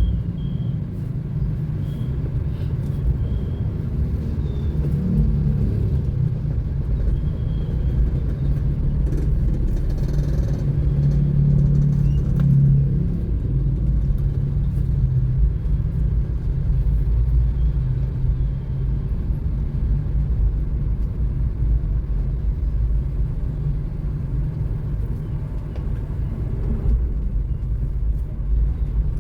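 Car driving along a road: a steady low rumble of engine and tyre noise that swells for a few seconds about ten seconds in.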